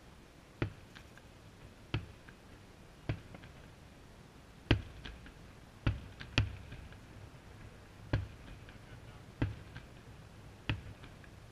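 Distant aerial firework shells bursting: nine sharp bangs, about one to one and a half seconds apart, two of them close together a little past the middle.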